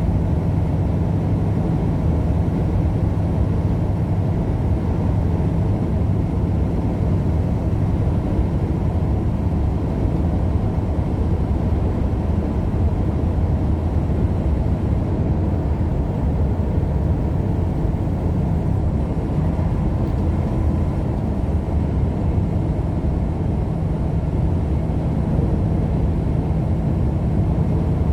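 A vehicle driving along the road: a steady, unbroken low rumble of engine and road noise.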